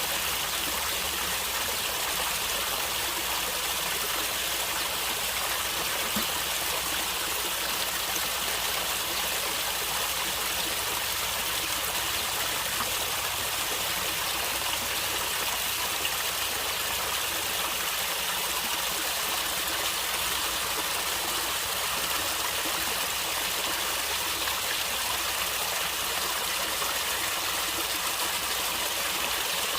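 Stream water flowing and gurgling over rocks, steady and unbroken.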